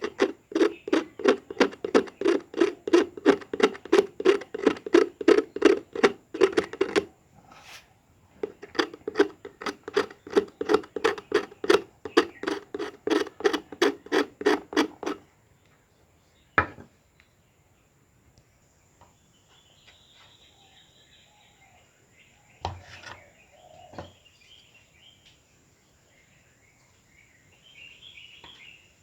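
Quick, even back-and-forth strokes of something being abraded by hand, about four to five a second, in two runs of about seven seconds with a short pause between. Later come a single sharp click and two knocks.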